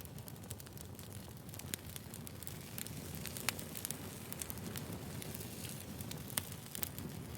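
Wood fire burning: a steady soft hiss with frequent sharp crackles and pops from the burning logs.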